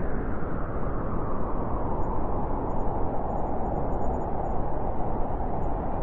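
Howling blizzard wind: a steady rushing noise whose howl sinks a little in pitch over the first couple of seconds, then holds.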